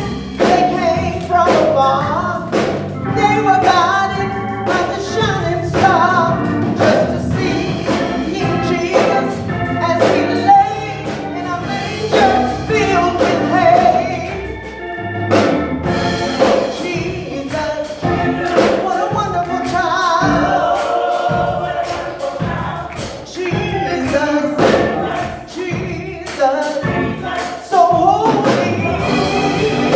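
Gospel choir singing with a band accompaniment, drums keeping a steady beat.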